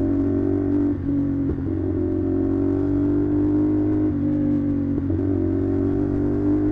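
CFMoto 450SR parallel-twin engine running through an SC Project aftermarket exhaust while riding, a steady note that dips briefly a few times.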